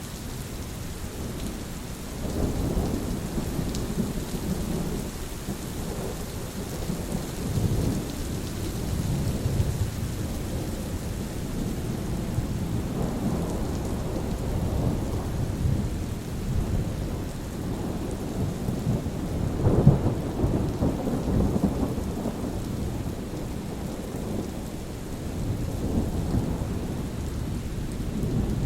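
Thunderstorm: steady rain with rolling thunder rumbling and swelling in waves, the loudest rumble about twenty seconds in.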